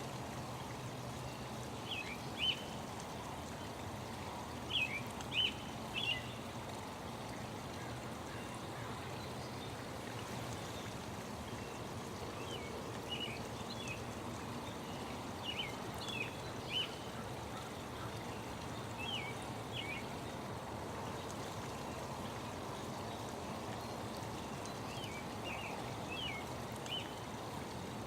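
Steady running water, like a stream, with birds chirping over it in short clusters of quick high chirps every few seconds.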